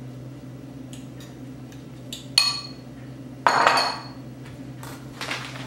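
A utensil clinking and scraping against a bowl while mixing mashed potato, with a few separate clinks, the loudest about three and a half seconds in.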